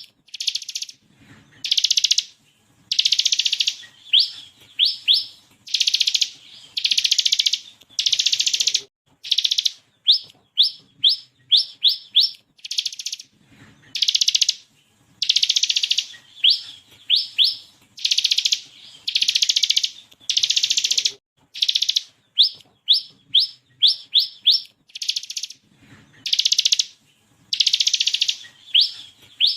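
Bar-winged prinia (ciblek kristal) singing: runs of three to five quick, high, rising notes alternating with dense buzzy rattles of about a second each, the pattern repeating over and over.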